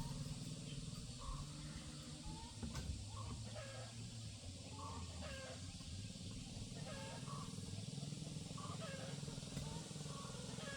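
Pigeons cooing, with short calls repeating about once a second over low, wavering coos.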